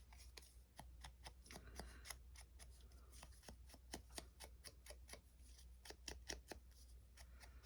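Faint, irregular small clicks and rustles of paper and card being handled, several a second.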